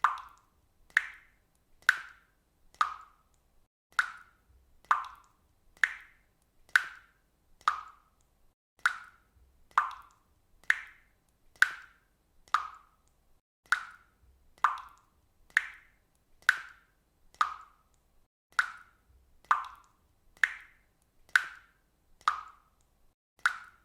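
Water dripping steadily, about one drop a second, each a short plop, its pitch shifting slightly from drop to drop.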